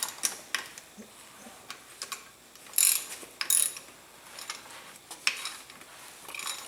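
Hand socket ratchet clicking in several short bursts as bolts are turned during engine assembly, the loudest bursts about three seconds in.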